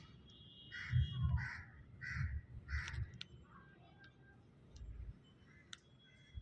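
A bird calling four times in quick succession, about one harsh call every half second, with low rumbling beneath the calls.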